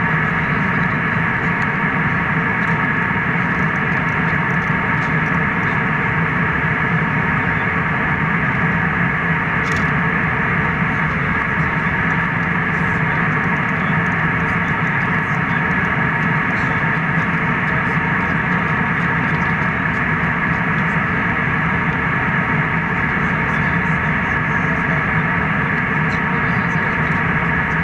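Steady jet airliner cabin noise in flight: an even rush with a constant low hum and a few steady tones.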